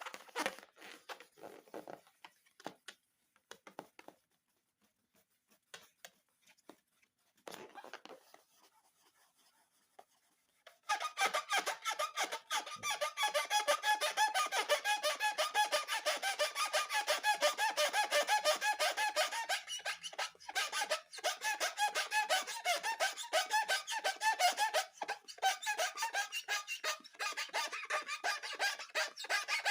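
Rubber balloons squeaking as they are rubbed and squeezed. A few scattered clicks and snips come first, then about ten seconds in a fast, continuous run of squeaks starts and keeps on.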